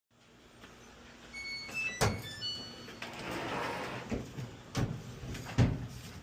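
A short tune of electronic beeps at several different pitches from the Samsung dryer's control panel, with a sharp knock about two seconds in. After that comes about a second of scraping or rustling, then a few more knocks as the dryer is handled.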